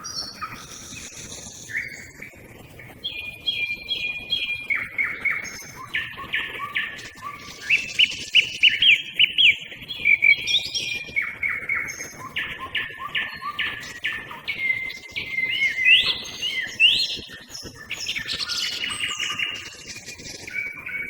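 A song thrush and a nightingale singing at the same time, in a run of loud phrases. Each phrase is a rapid series of sharp notes repeated several times over.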